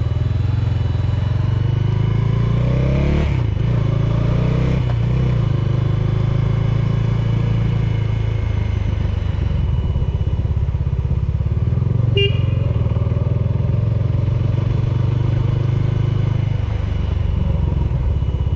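Bajaj Dominar 400's single-cylinder engine running steadily with its radiator cooling fan blowing loudly, a fan noise the owner finds unusually loud but which the dealer's mechanics call normal. A short click about twelve seconds in.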